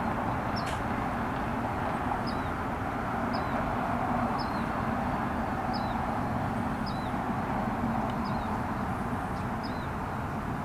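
A small bird calling repeatedly, a short high chirp about once a second, over a steady outdoor background rumble.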